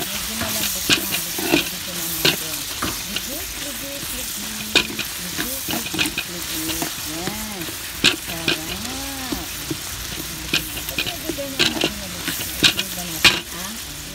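Chopped tomatoes, onion and garlic sizzling in hot oil in an aluminium wok, with a metal spoon stirring and scraping against the pan. The sizzle is a steady hiss, and the spoon's clinks and scrapes come as sharp clicks scattered throughout.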